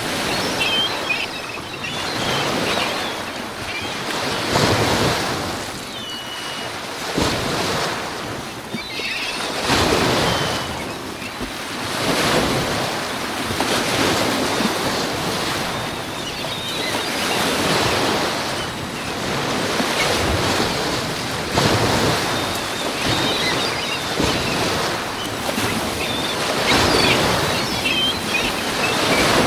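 Lake Michigan waves breaking against the shore in high wind, swelling and falling every few seconds, with wind buffeting the microphone.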